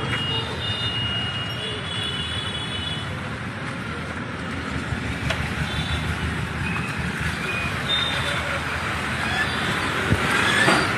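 Busy road traffic with vehicles passing, and short horn toots in the background.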